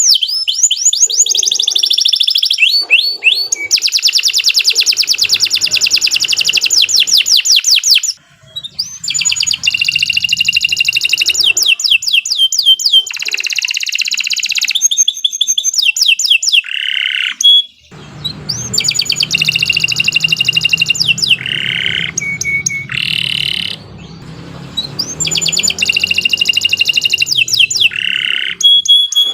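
Domestic canary singing a long, continuous song of fast trills and rolls made of rapidly repeated notes, with two brief pauses.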